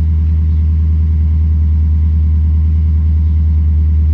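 Lexus GS F's 5.0-litre V8 idling steadily, a low, even drone heard from inside the cabin.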